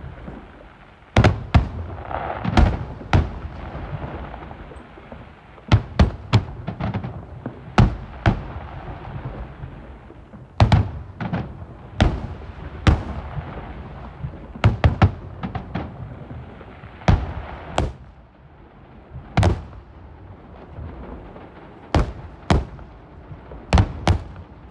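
Aerial fireworks shells bursting in an irregular run of sharp bangs, sometimes two or three within a second, over a continuous background noise between the bursts.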